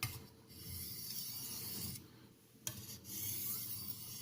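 Steel knife blade stroked across a Haidu JIS 6000 (FEPA 1500) grit aluminium oxide sharpening stone: two long hissing scrapes, with a light click between them.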